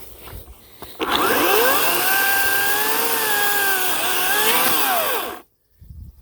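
Ryobi 18-inch electric chainsaw motor and chain spinning up with a rising whine about a second in, running loud for about four seconds with small dips in pitch, then winding down and cutting off suddenly.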